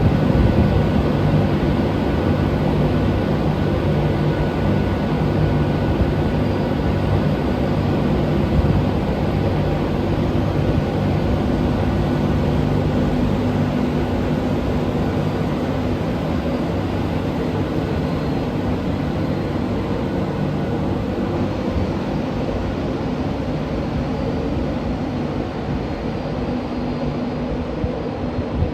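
A passenger train's engines running with a loud, steady drone, easing off slightly toward the end.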